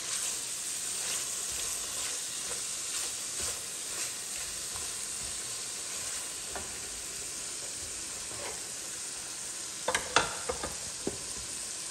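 Chicken curry masala frying in oil in a stainless steel pot, a steady sizzle while a wooden spatula stirs it. There are a few sharp knocks near the end.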